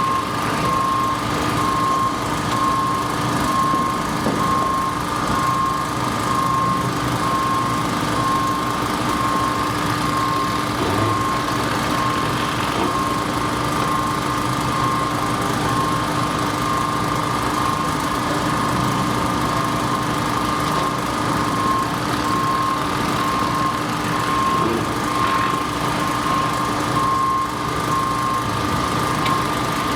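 An engine running steadily, with a constant lower hum and a high whine that pulses evenly. This fits construction equipment idling on a bridge work site.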